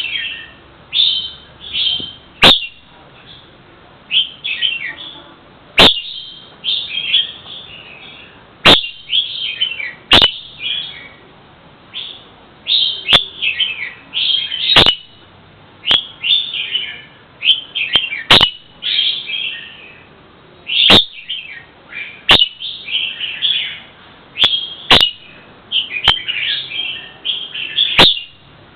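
A songbird chirping in quick, repeated short phrases with hardly a pause, broken every second or few by a sharp click.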